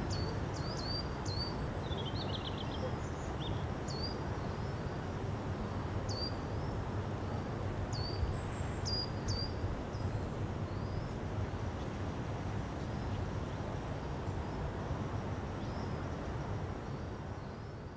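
Outdoor ambience of small birds chirping: short, high calls that bend sharply in pitch, repeated several times and with a quick trill a few seconds in, mostly in the first half. They sit over a steady rushing background noise that dips near the end.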